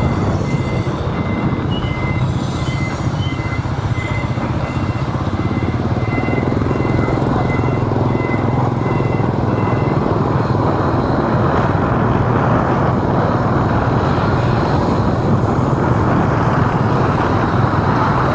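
Steady engine and road noise of a vehicle driving through city traffic, with a low hum throughout. A faint high beeping repeats during the first half.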